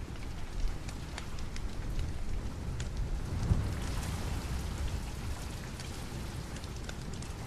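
Steady rain mixed with a crackling wood fire: an even hiss with a low rumble underneath and scattered sharp pops throughout.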